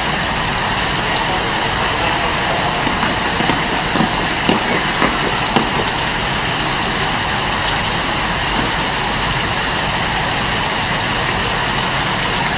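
Steady, loud hiss of heavy rain falling. A few short knocks come between about four and six seconds in.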